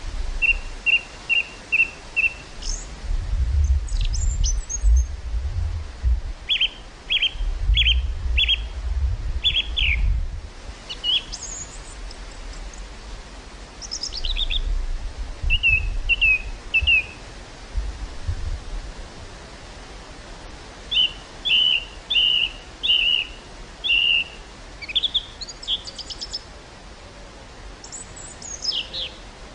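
Small birds singing in quick series of short chirps, repeated throughout, over a steady outdoor hiss. Gusts of wind rumble on the microphone on and off through the first two-thirds.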